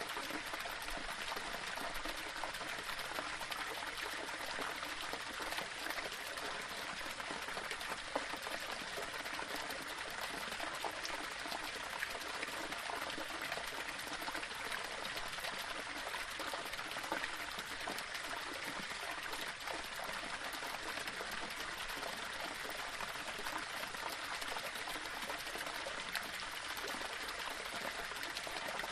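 Small waterfall splashing and trickling over rocks: a steady, even rush of running water with fine splashing detail.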